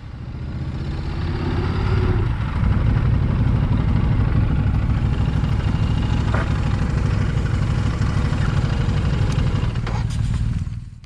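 Motorcycle engine running steadily. It builds up over the first couple of seconds with a brief rise in pitch, then holds even, and is cut off at the end.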